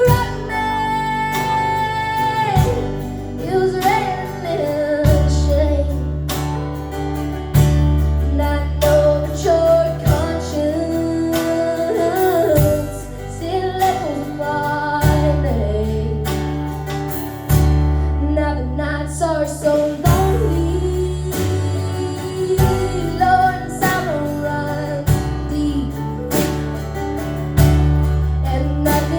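Live acoustic string band playing a slow, sad song, with a girl's singing voice over guitar.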